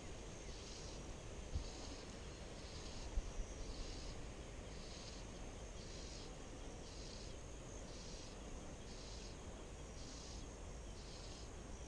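An insect chirping in short high-pitched pulses, evenly repeated about once every three-quarters of a second, over a low wind rumble. Two faint knocks sound in the first few seconds.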